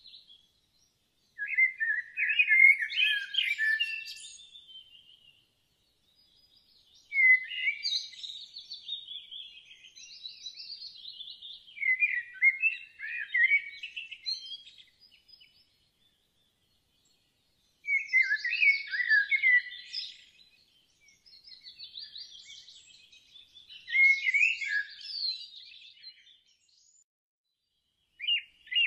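Songbird singing: phrases of rapid, varied chirping notes, each a few seconds long, with silent gaps between them.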